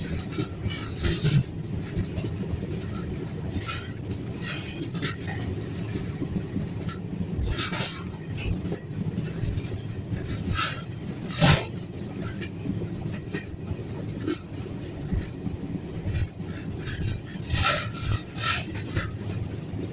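East Coast Express passenger train running: a steady low rumble with irregular metallic clanks of wheels over rail joints, one louder clank about halfway through.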